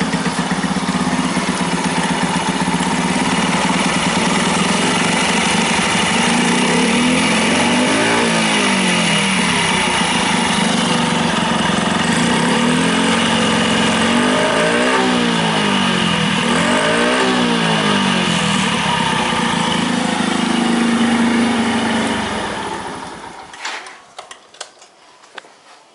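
Honda Magna 50's small air-cooled single-cylinder four-stroke engine idling, revved up and back down about three times, then switched off near the end, leaving a few faint clicks.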